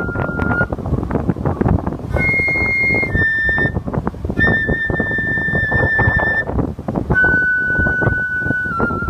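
Umebue whistle playing a phrase of clear, held notes. There is a short high note, a lower one, then two long sustained notes, with a brief break near the start and another after the middle. Strong typhoon wind buffets the microphone throughout with a loud, gusting rumble.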